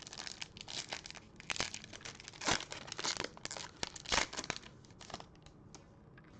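Crinkling and tearing of a foil trading-card pack wrapper as it is ripped open and handled, in quick irregular crackles with two louder rips near the middle, dying away near the end.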